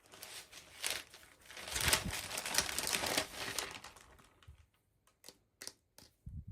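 Crinkly toy packaging being handled and opened, a dense crackling rustle that peaks about two to three seconds in. It is followed near the end by a few separate sharp clicks.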